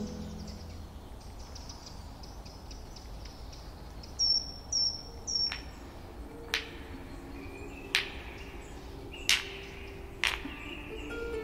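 Quiet woodland ambience with a faint steady background. About four seconds in, a bird gives three short, high, falling chirps. Then come sharp clicks at roughly one-second intervals.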